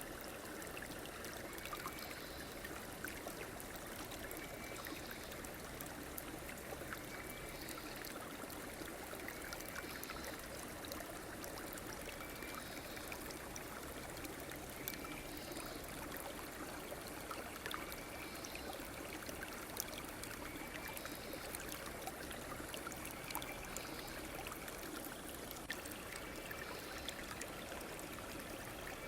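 A stream running steadily, an even rush with trickling. A faint short high sound repeats about every two and a half seconds.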